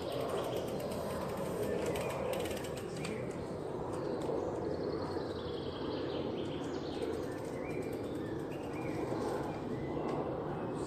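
Small birds chirping repeatedly in woodland over a steady background noise.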